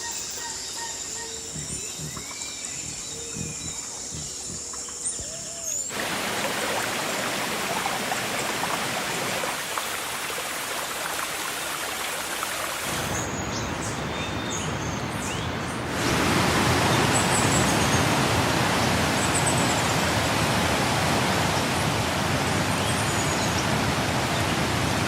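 A steady, even rushing of water that begins suddenly about six seconds in and grows louder from about sixteen seconds in. Before it there is a quieter stretch with faint thin tones and short chirps.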